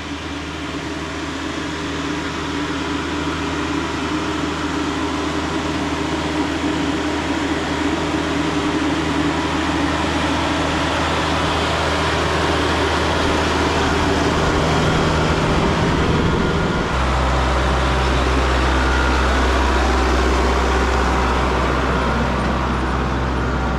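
Tractor engine running as it drives along, slowly getting louder; its low drone changes and grows stronger about seventeen seconds in.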